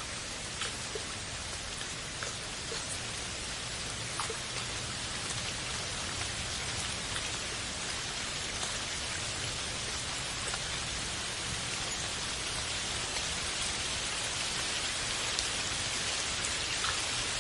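Steady rain falling, an even hiss with scattered individual drops ticking, growing slightly louder toward the end.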